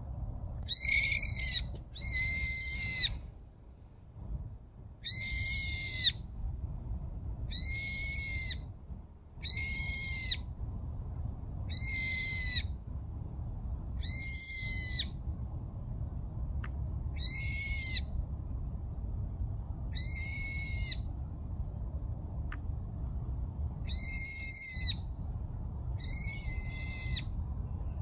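Brown-eared bulbul calling: a series of about eleven high, level calls, each under a second long, repeated every two to three seconds, the first few loudest and the later ones fainter. A steady low rumble sits underneath.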